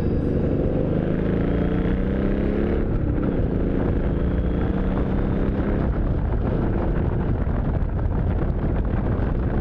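Motorcycle engine under way, rising in pitch, dipping once about three seconds in and climbing again, with wind rushing over the microphone.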